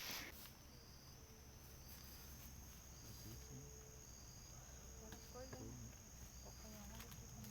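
Crickets or other night insects trilling, faint: a steady high trill with a shorter chirp repeating about once a second.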